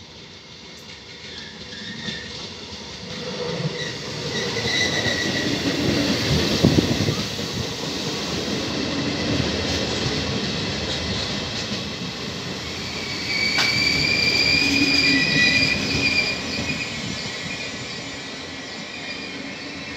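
Locomotive-hauled passenger train approaching and then rolling past close by, its wheels running on the rails, growing louder over the first few seconds. A high squeal sounds briefly about five seconds in and again for a few seconds from about 13 to 16 seconds, with a sharp knock as the second squeal begins.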